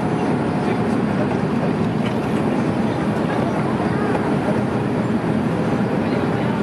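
Steady roar of an Airbus A310 airliner heard from inside the passenger cabin: engine and airflow rumble.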